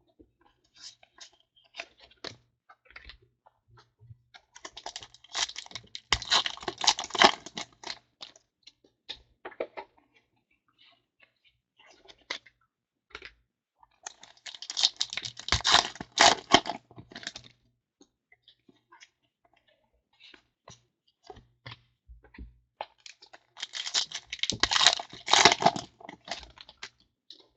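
Trading card packs and cards being handled: three bursts of crinkling, rustling and tearing, with scattered light clicks in between.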